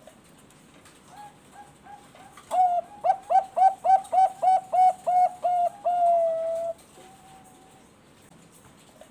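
Zebra dove (Thai-bred perkutut bangkok) singing its cooing song: a few soft notes, then a loud run of about ten quick staccato coos, roughly three a second, ending in one long drawn-out note that falls slightly in pitch.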